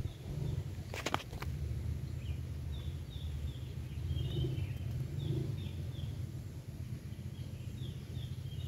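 Outdoor ambience of small birds chirping in short, repeated high notes over a steady low rumble, with two sharp clicks about a second in.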